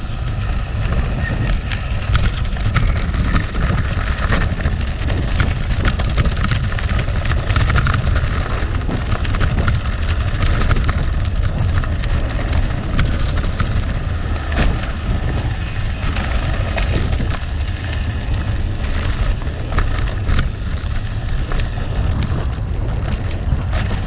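Gravel bike rolling over rough gravel: a steady crunching rumble of tyres on loose stones, with frequent sharp clicks and rattles from stones and the bike, over a low rumble of wind on the microphone.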